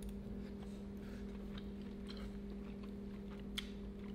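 A mouthful of orzo pasta with chicken sausage being chewed, faint, over a steady low hum. One small click about three and a half seconds in.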